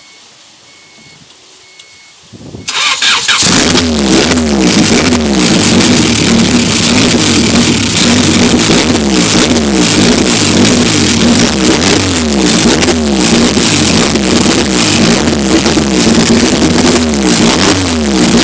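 Honda B18 VTEC four-cylinder in a CRX being started for the first time: a brief crank about three seconds in, then it catches and runs loud. Its pitch rises and falls again and again as the throttle is blipped.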